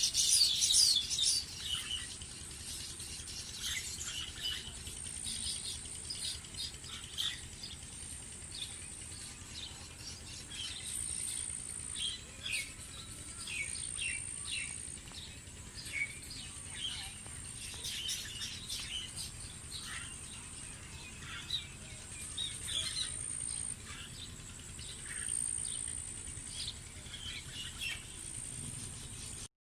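Small birds chirping: many short, high calls in quick, irregular succession, with a thin high hum coming and going behind them.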